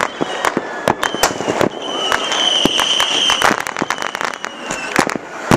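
Fireworks going off at a distance: an irregular run of bangs and crackles, with a high steady whistle held for about a second in the middle and a loud bang near the end.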